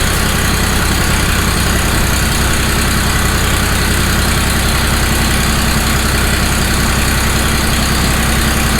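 Ford 1720 compact tractor's three-cylinder diesel engine running steadily at a low, even speed.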